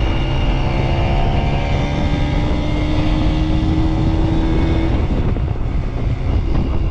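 Kawasaki KS125 single-cylinder two-stroke engine running while the motorcycle is ridden, its pitch slowly rising and then dropping away about five seconds in, over a low rumble of wind.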